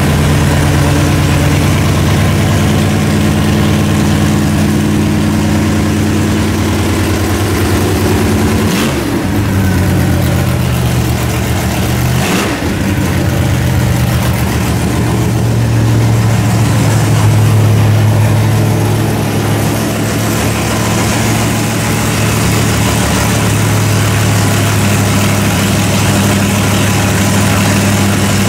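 Car engine idling steadily, with two short blips in its note about 9 and 12 seconds in.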